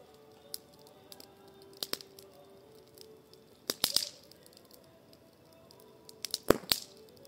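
Wood fire of pruned branch cuttings burning in a fire bowl, crackling with sharp pops: one about half a second in, a couple near two seconds, a cluster near four seconds and the loudest pair near the end.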